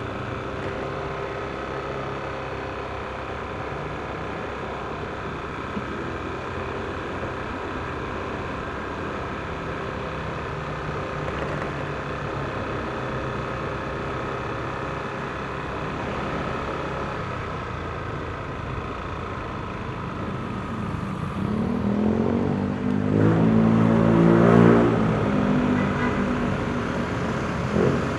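Yamaha NMAX scooter's single-cylinder engine and belt drive running steadily under the rider, with road and wind noise. Roughly three quarters of the way through, a louder engine sound swells to a peak and eases off.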